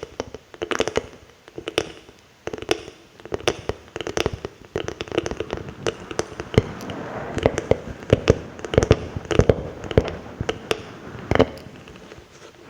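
ASMR mouth sounds close to the microphone: wet clicks, pops and smacks of lips and tongue, coming irregularly several times a second in clusters.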